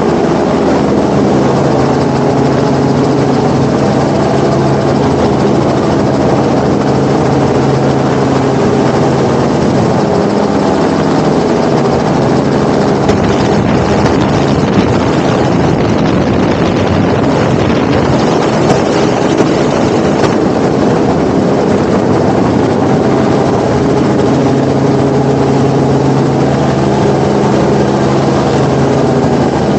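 Helicopter engine and rotor running steadily in flight, a loud continuous drone with steady tones under a rushing noise.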